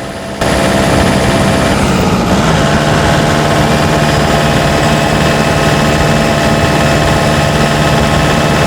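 Turbocharged four-cylinder diesel engine of a pickup with mechanical injectors running steadily under load on a steep climb. It gets louder about half a second in, and its pitch steps down slightly about two seconds in.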